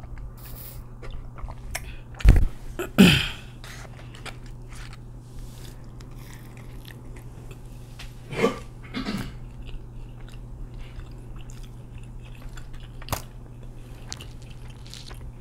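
Close-miked chewing and biting of a Chick-fil-A spicy deluxe chicken sandwich, amplified for an eating show: soft wet chewing and small crackles, with louder bites about two and three seconds in and again around eight and a half seconds in. A steady low hum runs underneath.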